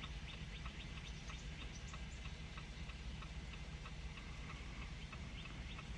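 Hazard-light flasher ticking steadily inside the Jeep Compass's cabin, a quick even run of clicks over a low background rumble.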